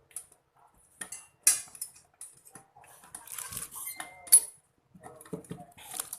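Clinks and knocks of a metal mixing bowl and kitchen items being handled, with one brief ringing tone, and rustling of packaging in between.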